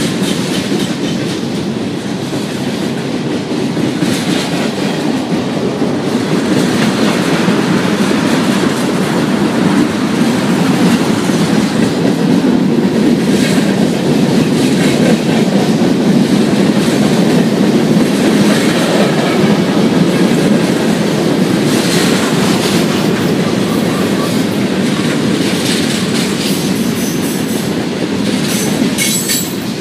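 A freight train's cars, boxcars and covered hoppers, rolling past: a steady rumble of steel wheels on the rails with scattered clicking, building a little louder through the middle.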